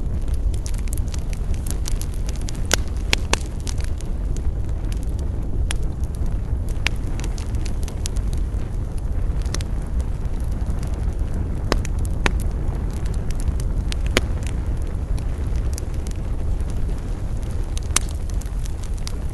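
Campfire burning: a steady low rumble of the flames with irregular sharp crackles and pops of burning wood.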